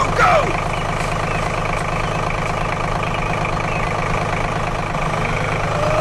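Engine idling steadily, an even low drone. A brief falling squeal sounds at the very start.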